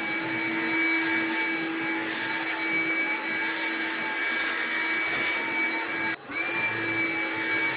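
Steady mechanical hum with a high whine, briefly cutting out about six seconds in and coming back with a short rising pitch.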